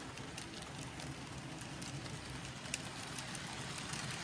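N gauge model trains, among them a digitally chipped Kato LNER Class 800 Azuma, running on the layout's track: a faint, steady low hum with light irregular ticking and one sharper click about three seconds in.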